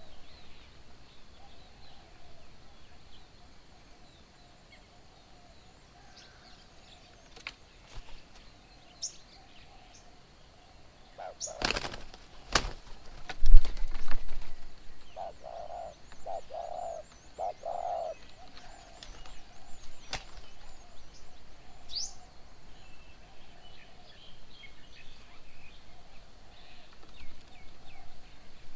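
Birds at a feeding table: a flurry of wingbeats with a thump a little past the middle, followed by four low cooing notes, with scattered small chirps throughout.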